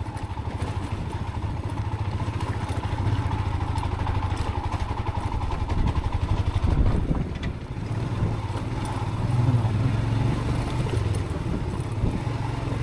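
Motorcycle engine running under load as the bike climbs a loose gravel and rock track, a steady low rumble that swells a little in places.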